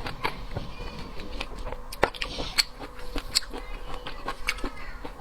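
Irregular sharp clicks and cracks of shellfish being cracked and handled while eating.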